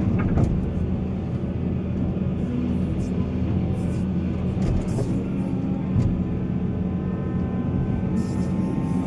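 Heavy diesel earthmoving machinery running steadily at a mine site, a deep engine drone, with a couple of brief knocks about a third of a second and six seconds in.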